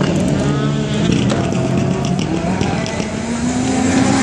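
Rally car engine running hard and revving, its pitch climbing toward the end, with a few sharp cracks in the middle.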